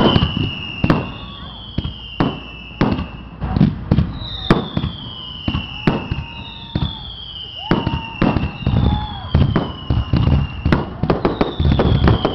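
Aerial fireworks shells bursting in quick succession, a string of sharp bangs and booms with high whistles that fall in pitch every couple of seconds. The bursts grow denser and louder near the end as the finale builds.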